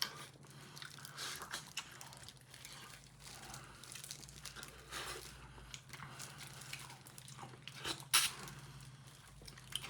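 Close-up eating sounds of someone eating pork-bone hangover soup: chewing and small wet clicks, with two sharper crunches about five and eight seconds in, over a steady low hum.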